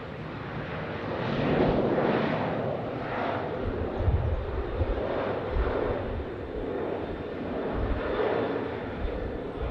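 Jet airliner engines running as the aircraft passes, a broad roar that swells about a second and a half in and stays strong.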